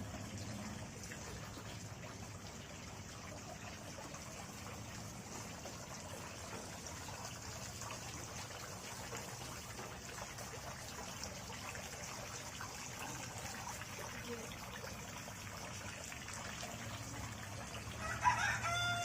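Steady trickling of water, with a rooster crowing once near the end.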